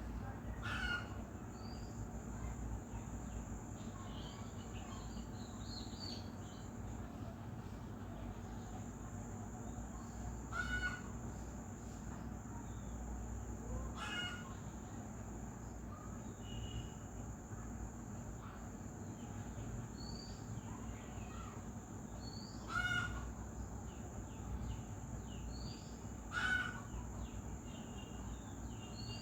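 Birds calling: five short, harsh, loud calls spaced several seconds apart, with faint high chirps between them, over a steady high-pitched whine.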